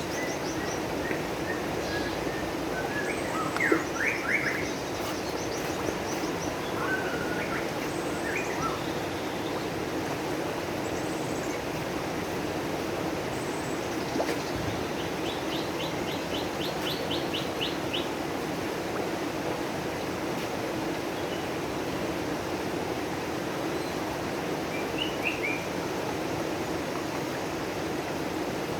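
Small birds chirping on and off, including a quick trill of about ten notes midway, over a steady rush of running water from a koi pond.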